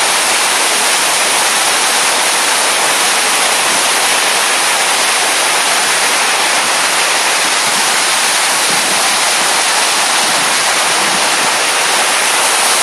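Water cascading down the Williams Waterwall, a large man-made fountain wall, making a loud, steady, even rush with no breaks.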